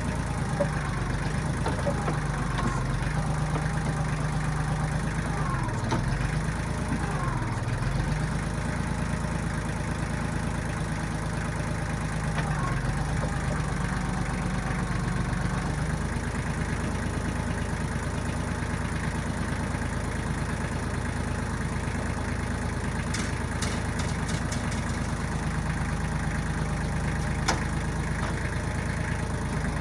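1995 Kubota backhoe's diesel engine running steadily, its pitch sagging briefly twice, about six and seven and a half seconds in, as if pulled down under load. A few short sharp clanks near the end.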